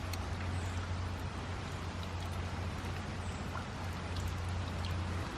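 Light rain falling on an umbrella: a steady hiss with scattered drop ticks, over a low steady hum that stops near the end.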